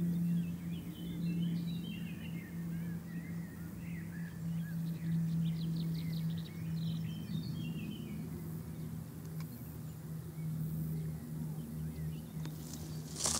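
Small birds chirping and twittering, mostly in the first half, over a steady low hum.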